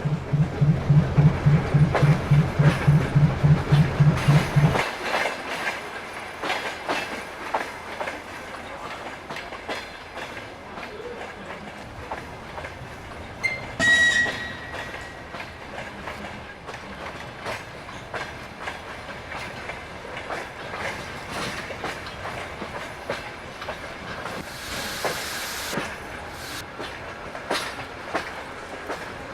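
Train running through the station, its wheels clattering over the rail joints. A low pulsing hum at about five beats a second fills the first five seconds. A brief high squeal comes about halfway and a short hiss near the end.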